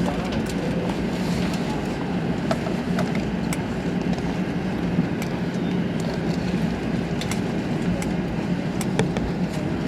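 Airbus A380 lower-deck cabin noise while taxiing after landing: a steady low rumble and hum, with scattered sharp clicks and rattles.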